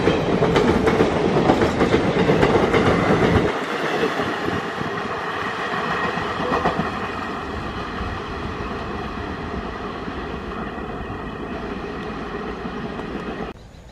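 Express passenger train passing at speed, its wheels clattering rapidly over the rail joints. The sound drops off suddenly about three and a half seconds in, then fades slowly as the train moves away, and cuts off just before the end.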